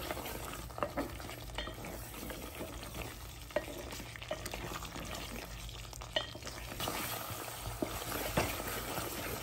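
Mutton in a thick spiced gravy sizzling in an aluminium pot while a spatula stirs it, with a few sharp scrapes and knocks of the spatula against the pot. It is being fried with freshly added ground spices.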